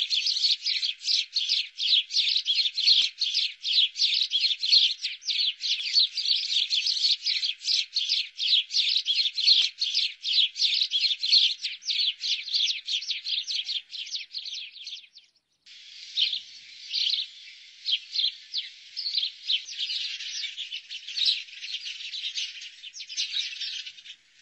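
House sparrows chirping in a fast, continuous stream of short chirps; the chirping breaks off briefly about fifteen seconds in, then resumes more sparsely.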